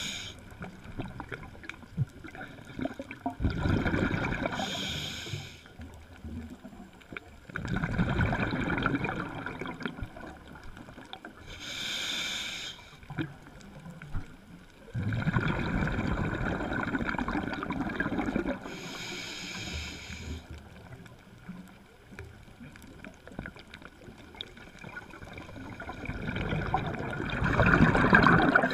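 Scuba diver breathing through a regulator underwater: a bubbling exhalation lasting a few seconds, then a short hissing inhalation, repeated about four times.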